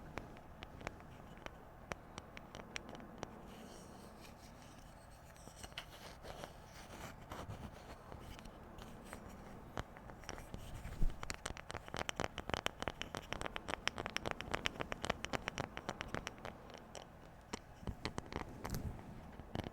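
ASMR tapping and scratching on objects: scattered taps, a softer scratchy stretch, then a quick run of rapid taps in the second half.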